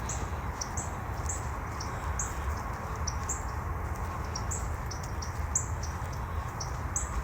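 Northern cardinals giving a run of short, high chip calls, about two or three a second.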